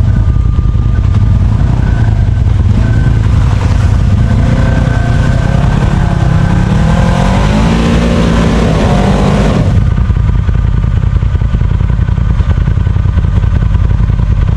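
Side-by-side UTV engine running loud, revving up with steadily rising pitch for several seconds, then dropping back abruptly to a steady idle.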